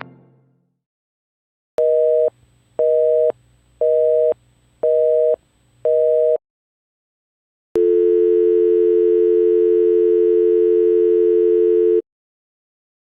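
Telephone busy signal: five short two-tone beeps about once a second. After a pause, a steady telephone dial tone holds for about four seconds and cuts off suddenly.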